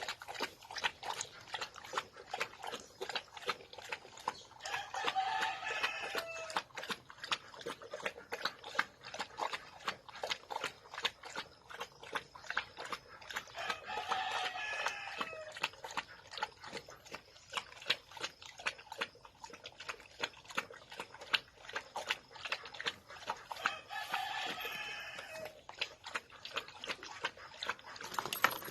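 A dog lapping water quickly: a long run of rapid wet clicks. Three times, about nine seconds apart, a drawn-out pitched animal call sounds over the lapping.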